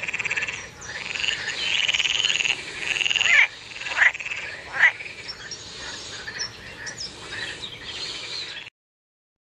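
Frog croaking: a continuous run of calls, with a few sharper, louder ones around the middle, cutting off suddenly near the end.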